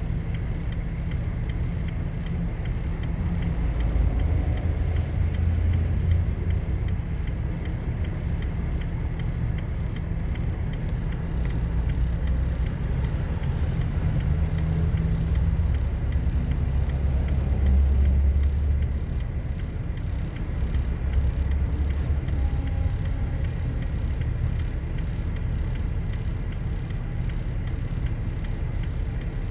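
Steady low rumble of road vehicles running, swelling louder a few times.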